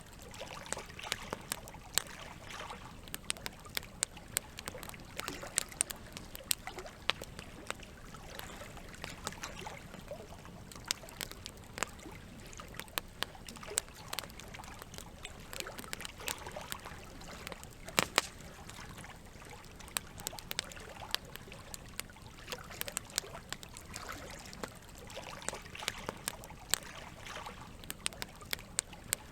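Campfire crackling with frequent sharp pops over a steady trickle of running water. One pop, about two-thirds of the way in, is louder than the rest.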